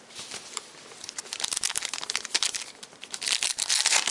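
Foil trading-card pack wrapper crinkling as it is torn open by hand, with dense crackling that builds up and is loudest near the end.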